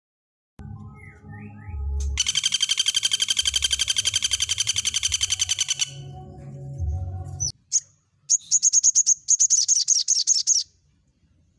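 Recorded songbird song: a fast trill of rapidly repeated notes, about ten a second, lasting some four seconds over a low background hum, then after a short break a burst of high, rapid chattering notes that cuts off near the end.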